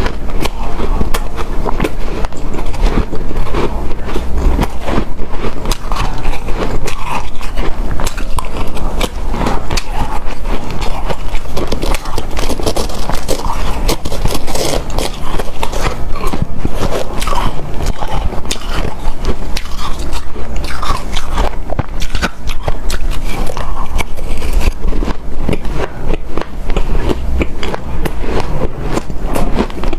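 Close-miked biting and chewing of hard, snow-like powdered ice: a dense, continuous run of crunching clicks with a soft squeaky crunch.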